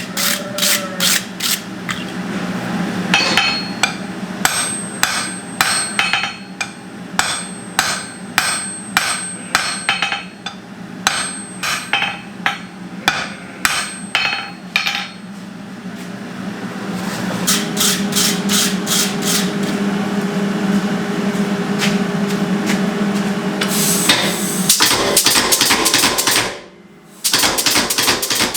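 Hammer blows on hot steel on an anvil: a steady run of strikes about one and a half a second, then a quicker run of blows later on, with a short break near the end.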